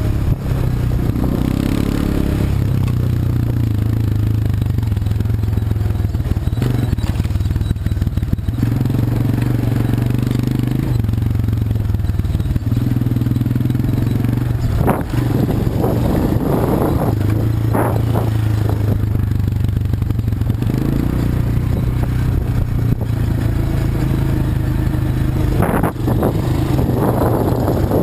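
ATV engine running while riding, its note stepping up and down with the throttle, with bursts of clattering about halfway through and again near the end.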